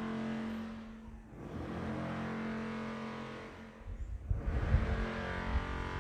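Motor vehicle engine passing, its sound swelling and fading twice. Wind buffets the microphone in low rumbles from about two-thirds of the way through.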